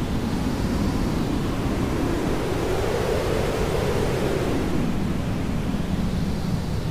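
Hair dryer running steadily: a continuous rushing noise whose tone slowly sweeps up and back down over a few seconds.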